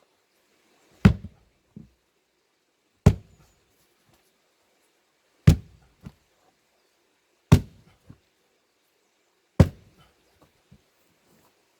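Five heavy blows of a splitting tool striking a big plane-tree log, about one every two seconds; most are followed by a smaller knock.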